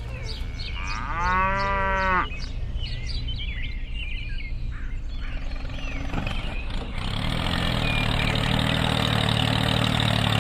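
A cow moos once, about a second in, among short bird chirps. From about seven seconds a small tractor engine runs steadily as the miniature tractor drives in.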